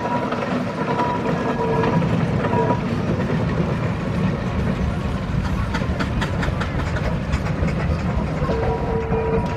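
Steam traction engines on the move, a continuous low rumble and clatter of engines and iron wheels. A steady held tone sounds on and off through the first few seconds and again near the end, and a run of sharp clicks and knocks comes in the middle.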